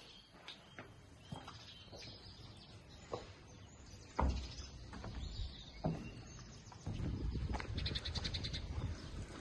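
Small birds chirping, with a quick high trill near the end. Behind them is a low rumble that sets in about four seconds in, and a few scattered thumps, the loudest about four seconds in.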